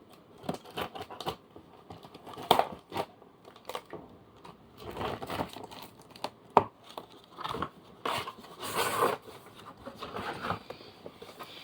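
Cardboard box and its packaging being opened and handled by hand: irregular knocks and rustles, with a longer crinkling, tearing noise about eight to nine seconds in.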